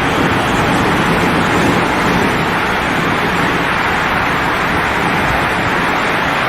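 Floodwater rushing in a steady, unbroken noise with no separate events.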